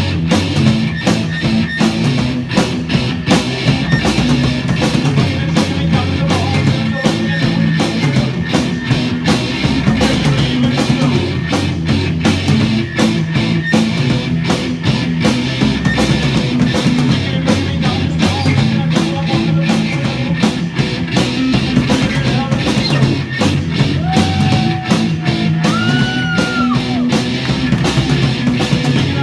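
Rock music: a band with distorted guitar and drum kit playing steadily, with a few held sung or lead notes near the end.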